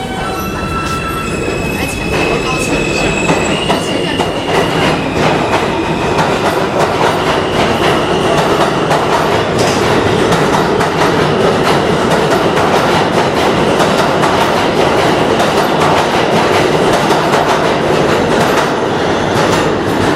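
An R160B subway train with Alstom propulsion pulls out of the station. Its traction motors whine in tones that step upward in pitch over the first few seconds, then a loud roar of wheels on rail builds and holds, with rapid clicking over the rail joints.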